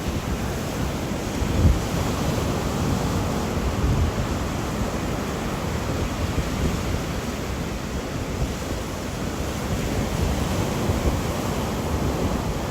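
Wind and rain in a storm: a steady rushing noise with gusty low rumbling, and a brief louder gust about two seconds in.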